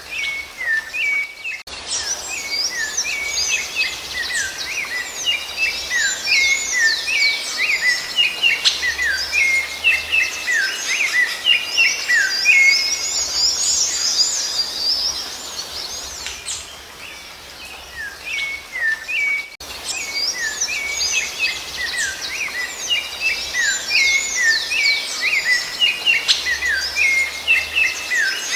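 Songbirds singing in a dense chorus of rapid, overlapping chirps and whistles, with brief breaks about 2 seconds and 20 seconds in.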